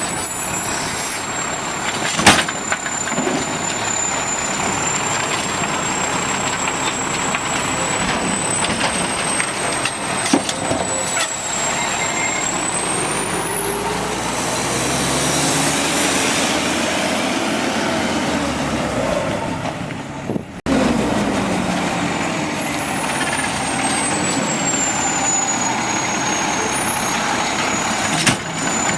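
Automated side-load garbage truck working: engine and hydraulics running with a high whine that holds steady, climbs sharply, then falls away again. A few sharp knocks sound, one about two seconds in and another near the end.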